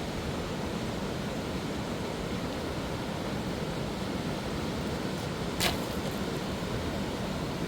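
Fast mountain river rushing in a steady roar of water, with a single short knock about five and a half seconds in.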